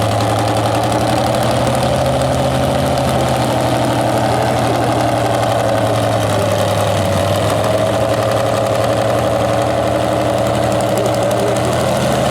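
Tractor engine idling steadily with an even, unchanging note.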